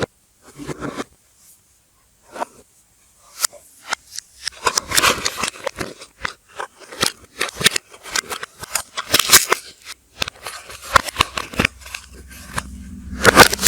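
Soap packaging being unpacked by hand: irregular crinkling, clicking and scraping of wrappers, sparse at first and then dense from a few seconds in, heard in reverse.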